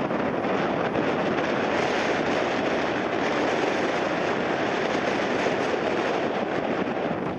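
Jet airliner's engines running as it lands: a loud, steady rushing noise.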